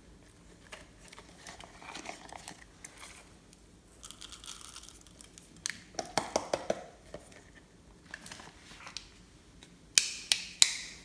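Crinkling and rustling of materials being handled, with scattered clicks, a quick cluster of taps about six seconds in, and a few sharp snaps near the end.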